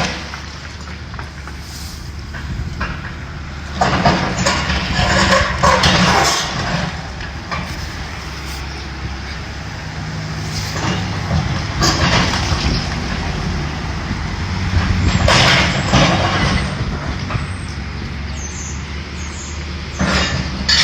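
Heavy demolition machinery: an engine running steadily, with several loud, noisy bursts of a second or two.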